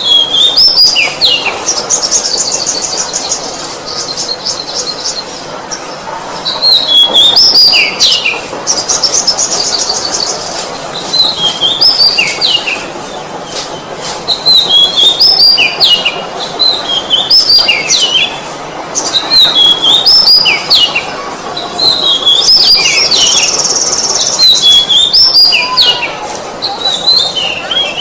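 Oriental magpie-robin (kacer) singing loud, repeated phrases of whistled notes that slide up and down, a new phrase about every two seconds. A fast, rattling trill comes in three times: near the start, about a third of the way in, and near the end.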